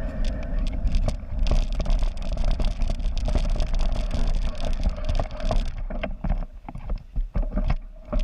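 Wind buffeting the microphone during a bicycle ride, a heavy rumble mixed with quick rattles and clicks from the moving bike. It eases and turns choppier about six seconds in.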